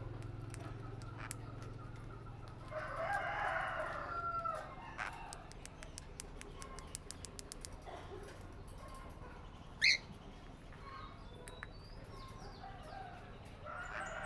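Birds calling: a long call about three seconds in, a short sharp squawk near ten seconds, and another call near the end, among light clicks.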